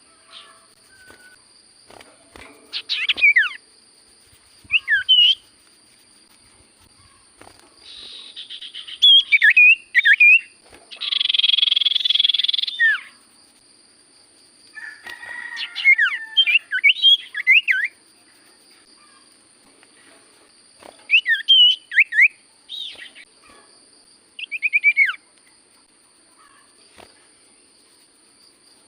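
An iora (cipoh) singing in short bursts of quick, sweeping whistled notes every few seconds, with a couple of harsher buzzing rattles mixed in, over a faint steady high tone.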